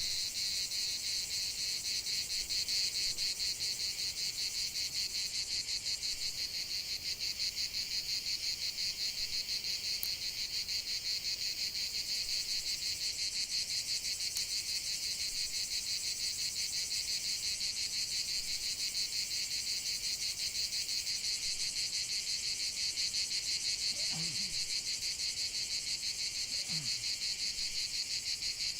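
A dense chorus of crickets chirping in a steady, rapid pulse, high-pitched. Near the end come two faint, short, low calls.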